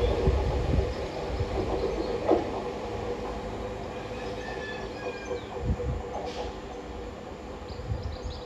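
Northern Class 195 diesel multiple unit pulling away and receding, its steady engine hum and wheel rumble fading gradually as it draws away.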